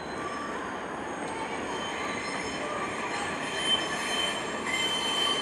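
R160 subway train running in on the express track, its steel wheels on the rails making a steady rumble that grows a little louder, with a thin, high wheel squeal held from about three seconds in.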